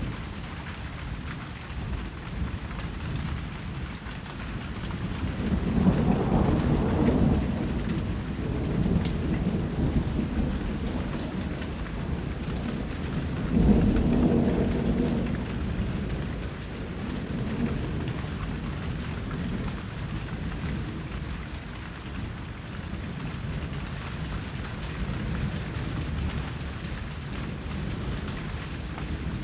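Steady rain falling, with two deep rolls of thunder that swell and fade, one about five seconds in and a louder one around fourteen seconds.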